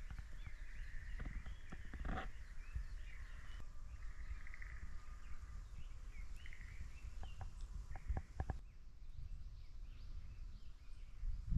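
Small birds chirping and calling over a low steady rumble, with a few sharp knocks about two seconds in and again about eight seconds in.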